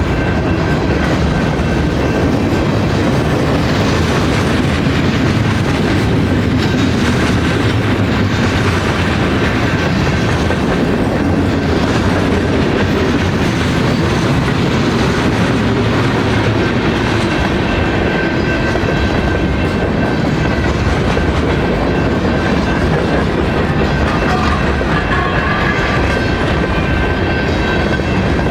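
Railroad cars rolling past on the track: a loud, steady rumble and clatter of steel wheels on rails, with a faint steady high ringing tone over it.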